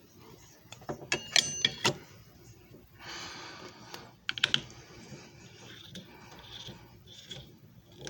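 Clicking and knocking of hard parts being handled on a JFJ Easy Pro disc repair machine: a quick run of sharp clicks about a second in, a short rushing noise about three seconds in, then a few more clicks.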